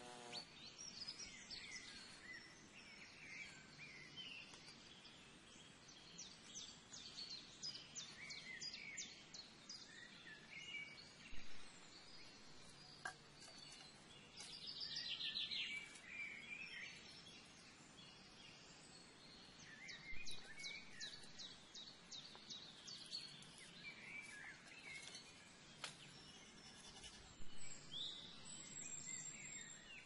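Wild birds chirping and trilling, with many short high calls and quick runs of notes, over faint steady outdoor background noise. A few brief knocks stand out now and then.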